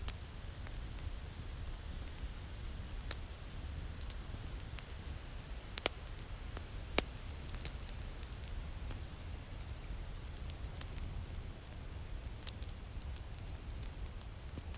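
Crackling fire with sharp pops and snaps every second or so, a few standing out louder, over a steady low rumble of winter wind.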